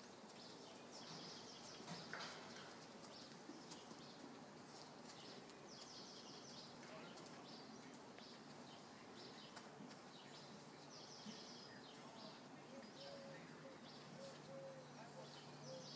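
Faint small birds chirping again and again over a near-silent background.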